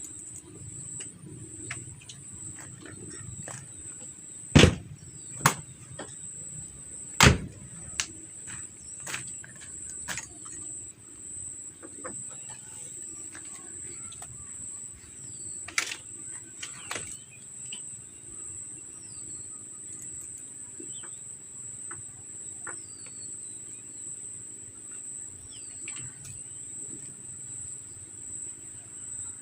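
Steady, high-pitched drone of insects such as crickets or cicadas. Several sharp knocks come near the start and one near the middle, with faint short chirps scattered through the rest.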